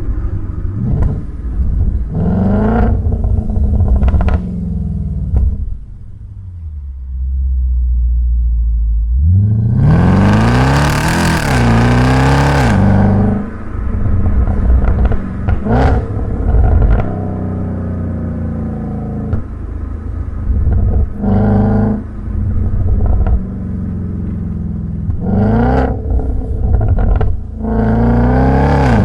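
Audi S5's 4.2-litre V8 with its mufflers deleted, loud and raspy: several short rev blips, a long hard pull whose pitch climbs, dips and climbs again, and a low rumble with burbles as the revs fall back between.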